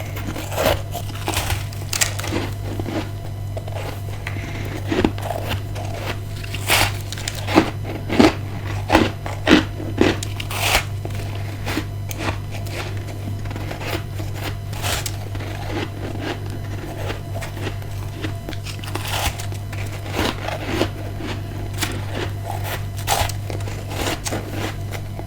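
Ice being bitten and crunched close to the microphone, in irregular sharp crunches that come closest together about seven to eleven seconds in. A steady low hum runs underneath.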